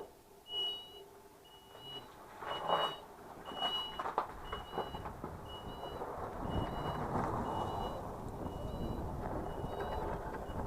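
Mobility scooter's reverse warning beeper: a short, high, steady beep repeating a little more than once a second as the scooter backs up. A low rumbling noise builds under it from about four seconds in.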